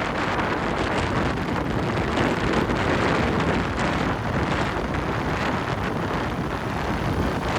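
Wind buffeting the microphone on a moving motorbike: a steady rushing noise with the bike's running and road noise underneath.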